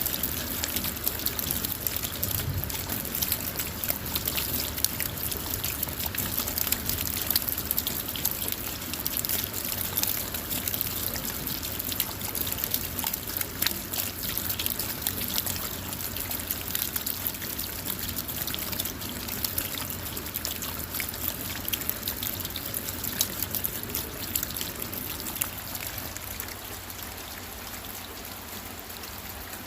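Steady rain on a car, heard from inside: a dense patter of drops over a continuous wash of water, fading a little near the end.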